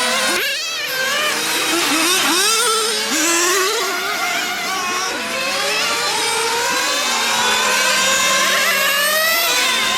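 Nitro engines of 1/8-scale radio-controlled on-road cars running on track, with several engine notes overlapping and rising and falling in pitch as the cars accelerate and back off.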